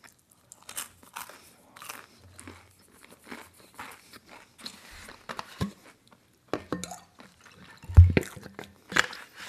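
A person chewing and crunching food, with many small crunches and clicks spread through. A single loud thump comes about eight seconds in.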